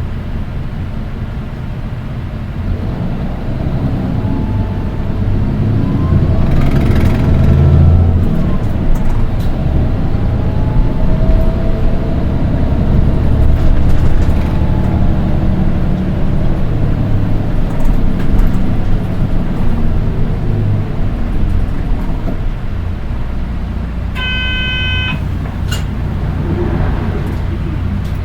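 Nissan Diesel Space Runner RM820 bus heard from inside, its diesel engine droning as it pulls away and runs on, with a thin high-pitched whine that rises and falls with engine speed: the shrill engine note found on this one bus of the four RM820s. About 24 seconds in, a short electronic chime sounds.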